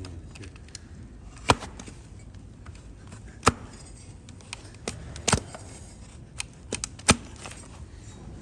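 Sharp chopping strikes of a hoof-trimming blade cutting into a donkey's hoof horn: four loud cuts about two seconds apart, with lighter clicks between.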